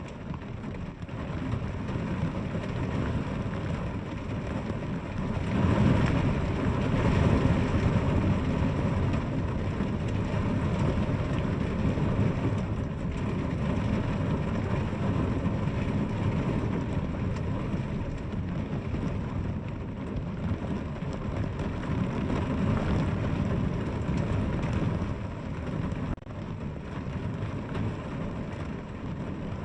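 Steady rain falling, with a louder, deeper swell about six seconds in that eases off a few seconds later.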